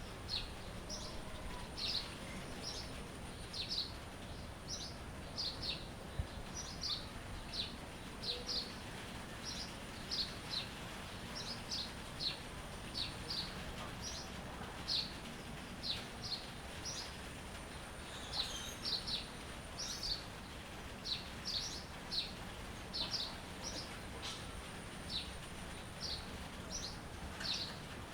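Songbirds chirping: a steady run of short, high, downward chirps, one or two a second, over a faint steady background hiss.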